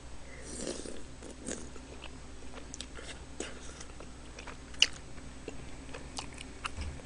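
A person chewing a spoonful of rice cake soup close to a microphone: soft wet mouth clicks and smacks scattered throughout, with one sharper click about five seconds in.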